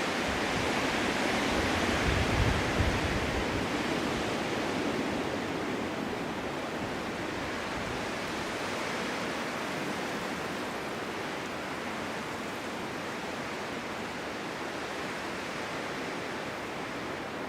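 Winter wind blowing steadily in a snowstorm, rising to a louder gust with a deep rumble about two seconds in, then easing a little.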